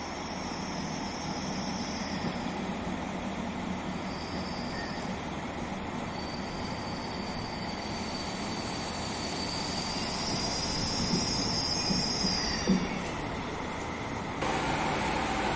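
PKP Intercity Siemens EU44 Husarz electric locomotive and its passenger train rolling slowly into the platform and braking, with a rumble and high-pitched squeal from the wheels that comes and goes. A short knock comes near the end, and the noise gets suddenly louder and fuller as the locomotive draws alongside.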